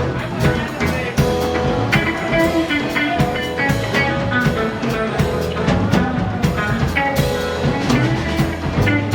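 Live rock band playing an instrumental passage: drum kit keeping a steady beat under electric guitars and bass.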